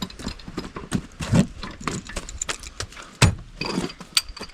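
Irregular metal clicks and knocks of a wrench being worked on the hex of a pipe fitting, with one sharper knock about three seconds in.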